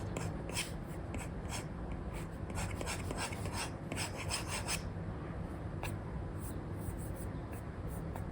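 Apple Pencil 2 with an Elecom nib scratching across a paper-like screen film on an iPad in short sketching strokes. The strokes come thick and fast for the first few seconds, then thin out to a few scattered strokes, over a steady low hum.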